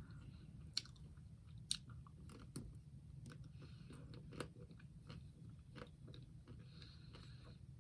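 Faint chewing and biting of a Magnum double caramel ice cream bar, with scattered crisp crunches of its chocolate shell; the two sharpest come about a second and just under two seconds in.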